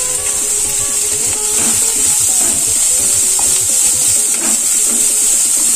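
Chopped onions with garlic and green chilli sizzling steadily in hot oil in a kadhai, stirred with a wooden spatula.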